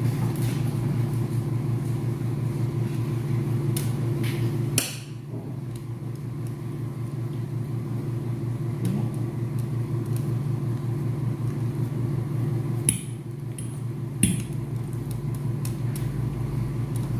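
Steady low mechanical hum, like a running motor, with a few short sharp clicks: around five seconds in, and twice more about thirteen and fourteen seconds in.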